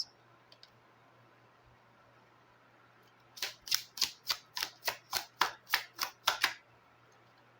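Tarot cards being shuffled by hand: a quick run of about a dozen short, even papery strokes, about four a second, starting about three seconds in and stopping shortly before the end.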